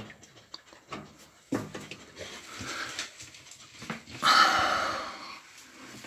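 A dog whimpering, with a louder whine about four seconds in that lasts about a second, among small clicks and knocks.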